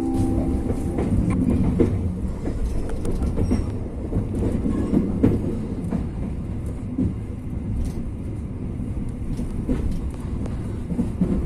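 Passenger train running along the track, a steady rumble with scattered clicks and knocks of the wheels on the rails.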